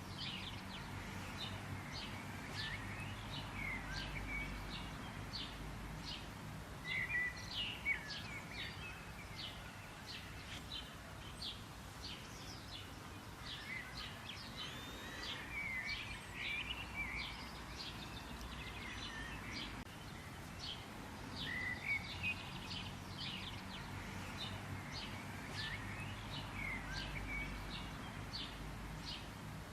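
Songbirds chirping continuously: many short, sharp high notes in quick succession, some in rapid trills, over a steady low background rumble.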